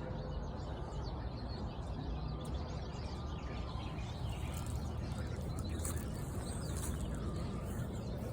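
Outdoor ambience: faint birds chirping over a steady low background rumble.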